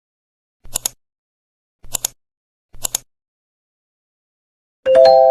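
Three short sharp clicks about a second apart, then an electronic three-note chime rising in pitch, its notes ringing on and slowly fading, like an airport public-address announcement chime.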